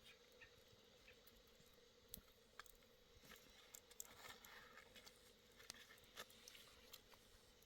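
Near silence, with faint scattered ticks and small clicks over a low steady hum.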